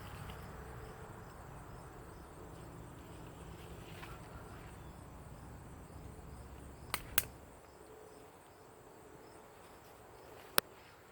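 Insects chirping steadily in the background, a faint high pulsing trill. A low rumble runs under it for the first seven seconds or so, and a few sharp clicks sound, two close together about seven seconds in and one near the end.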